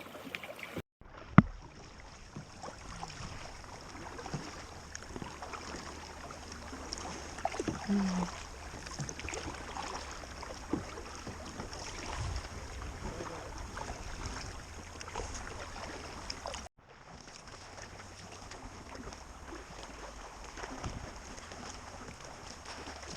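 Kayak out on the water: paddle strokes and water dripping and lapping against the hull, with wind on the microphone. A single sharp knock about a second in.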